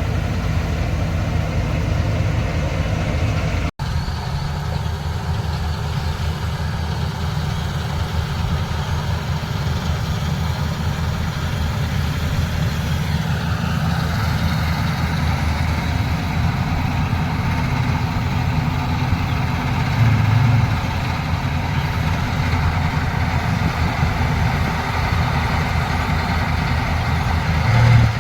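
Kartar 4000 combine harvester's diesel engine running steadily at working speed, with a momentary cut in the sound about four seconds in and short swells in loudness about twenty seconds in and near the end.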